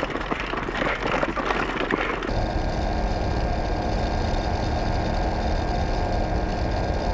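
Uneven rattling noise for about two seconds, then an abrupt switch to a steady motor drone at a constant pitch, running at full throttle.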